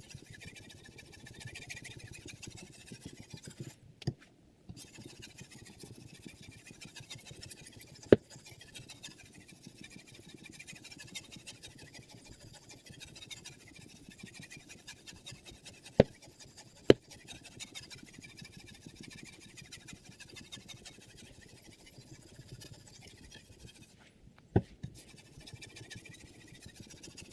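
Abrasive sharpening stone scraping along the steel blade of a chef knife in quick repeated strokes on a guided sharpening system. Now and then a few sharp clicks are heard, twice in quick succession about two thirds of the way through.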